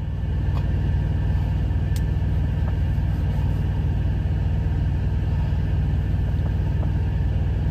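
Steady low rumble of an idling truck engine, heard from inside the cab, with a faint tick or two from handling food.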